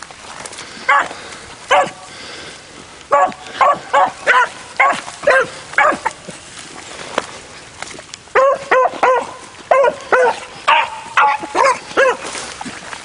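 Beagles barking on a run, in short sharp barks: two single barks, then a string of about six at roughly two a second, and after a pause a longer string of about a dozen.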